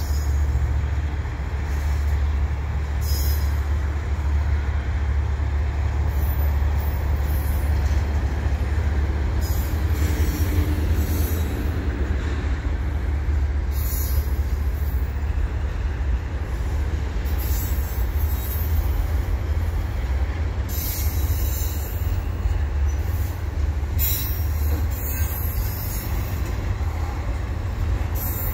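Freight train of double-stack container well cars rolling past on steel rails: a steady low rumble, with brief high-pitched wheel noise every few seconds.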